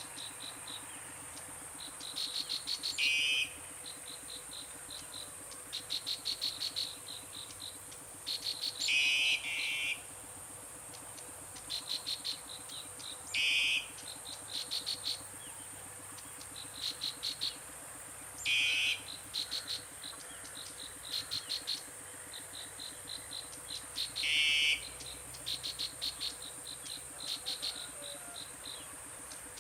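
Chorus of insects chirping in rapid pulsed trills over a steady high drone, with a louder, harsher call repeated about every five seconds, five times.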